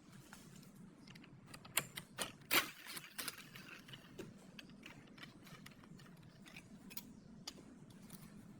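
Sharp light clicks and taps of small hard objects being handled, several close together about two to three seconds in, then scattered, over a faint low hum.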